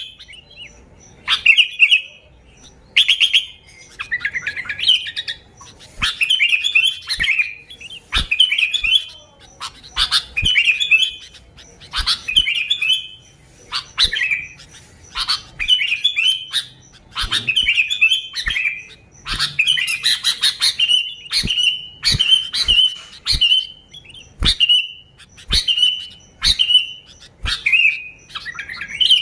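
Sooty-headed bulbul (kutilang) singing: bursts of bubbly chirping phrases repeated about every second and a half, with sharp clicks between them. In the second half the phrases shorten into quick runs of repeated single notes.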